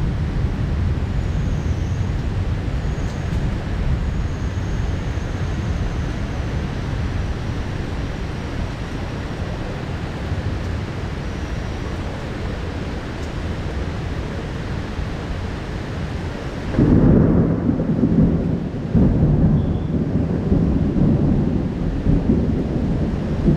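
Heavy downpour with low thunder rumbling beneath it. About two-thirds of the way in the hiss of the rain cuts out abruptly and louder, uneven rumbling surges take over.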